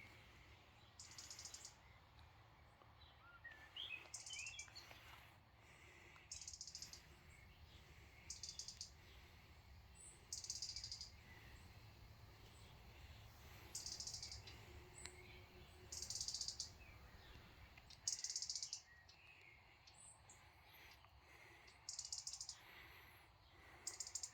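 Faint birdsong: a short, high trill repeating about every two seconds, with a few scattered chirps between, over a low background hum.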